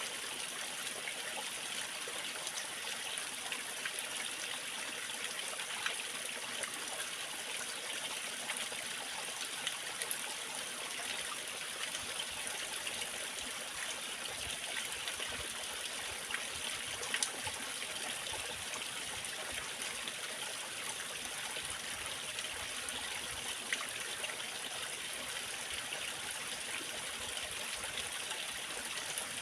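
Waterfall: water falling and splashing in a steady, even rush, with the light trickle of a stream.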